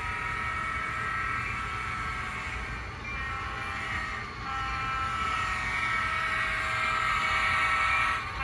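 Sound-equipped HO scale model locomotive's speaker playing a long, sustained multi-note horn chord, with short breaks about three and four seconds in, over a low running rumble.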